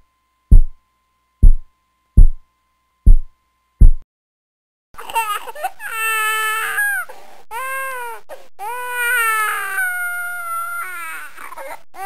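Slow heartbeat: five low thuds over about four seconds. After a second of silence, a baby crying in long wavering wails with short breaths between them.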